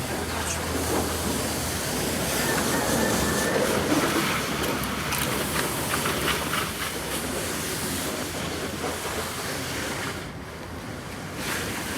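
Water from a pressure washer hissing as it sprays against a car, steady and loud, dropping away briefly near the end before resuming.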